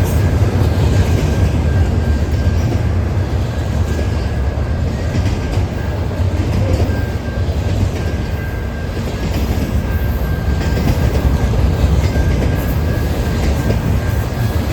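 Freight train rolling past, a steady rumble of wheels on rail with a thin high whine that comes and goes.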